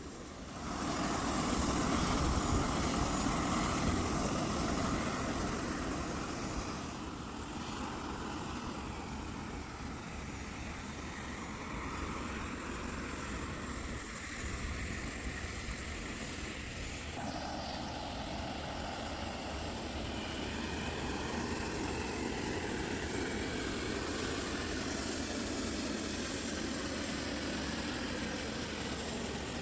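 Steady rush and hum of an Airbus A319's cabin at the gate during boarding, from the aircraft's ventilation and systems. It grows louder about a second in.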